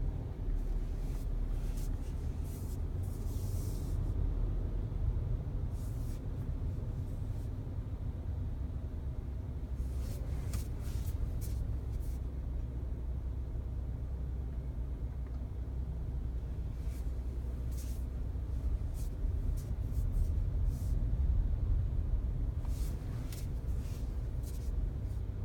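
Steady low road and engine rumble heard inside a Volkswagen Passat B8's cabin while driving, with scattered faint, short high-pitched ticks or creaks.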